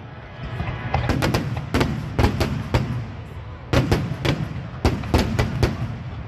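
Aerial fireworks bursting: a rapid series of sharp bangs, several in quick succession in clusters about a second apart, over a steady low rumble of background music.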